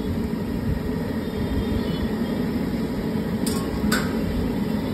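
Aloo tikki shallow-frying in oil on a large flat griddle, sizzling steadily over a low, steady rumble. Two short clicks near the end.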